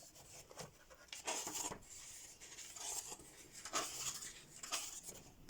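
Paper pages of a softcover coloring book being handled and turned: a few faint rustles and rubs.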